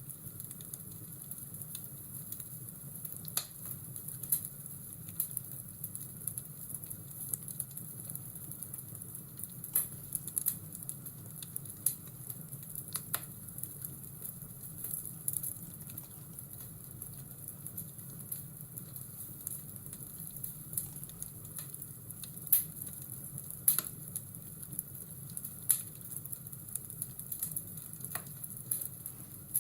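Fireplace crackling: irregular sharp pops and snaps over a steady low hiss.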